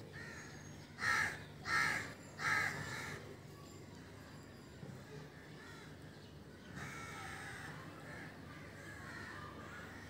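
A bird calling: three loud calls in quick succession about a second in, then a fainter, longer stretch of calling in the last few seconds.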